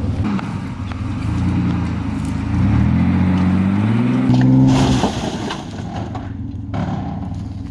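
Pickup truck engine revving hard, its pitch rising steadily for about two seconds as the truck drives onto a junk car, with a loud burst of noise at the peak about five seconds in; the engine then drops back to a lower, rough run.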